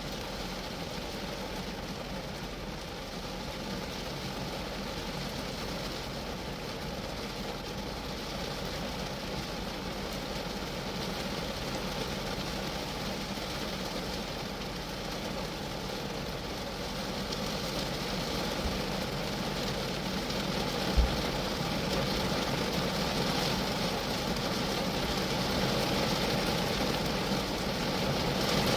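Rain falling steadily on a Geo Metro, growing a little louder in the second half, with one brief low thump about two-thirds of the way through.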